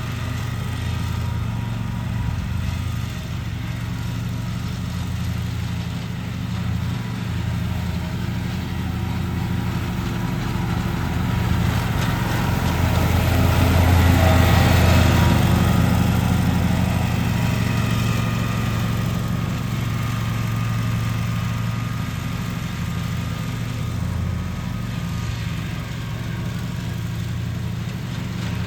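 Lawn mower engine running steadily at a constant pitch, growing louder about halfway through as it comes closer, then easing back.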